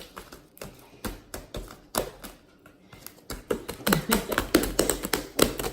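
Homemade fluffy slime being gathered up and squished by hand after a bubble breaks: an irregular run of quick clicks and pops, thinning out in the middle and busier again near the end.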